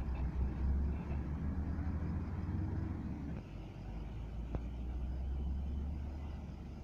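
Dump truck engines running as the trucks move off, a steady low rumble that shifts about three and a half seconds in, with one sharp click partway through.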